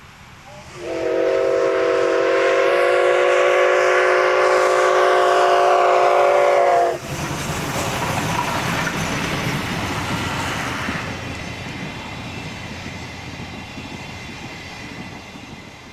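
A locomotive whistle sounds one long blast of about six seconds, several tones together, and cuts off abruptly. The train then rumbles past and fades away.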